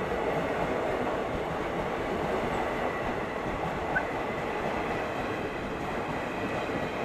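Indian Railways express train's coaches passing close at speed: a steady rush of wheels rolling on the rails with a running clatter.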